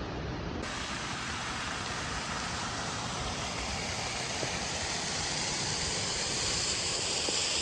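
Steady rushing aircraft noise heard inside the cabin, with no distinct events. About half a second in it turns brighter and hissier, then grows slightly louder toward the end.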